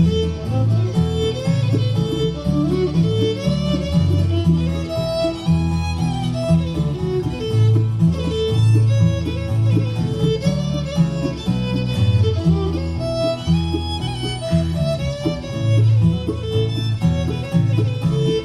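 Live string band playing an old-time fiddle tune, the fiddle carrying the melody over guitar and a bass that plays steady notes on the beat.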